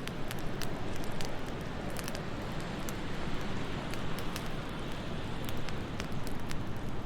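Wood fire crackling in a fireplace, with many sharp irregular pops over a steady low rush of wind.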